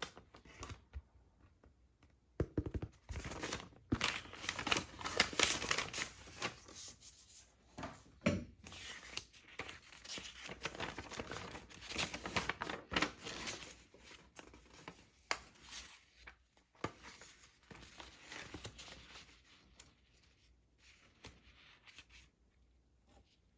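Toy packaging being torn open and crinkled by hand, an irregular run of crackling and ripping that starts about two seconds in and dies down near the end.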